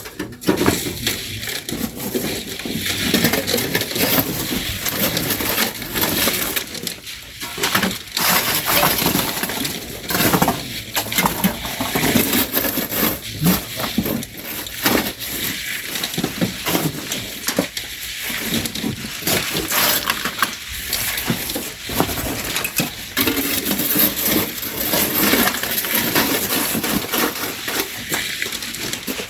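Sand and gravel being shovelled by hand and thrown into a truck: an irregular, continuous run of scrapes and knocks.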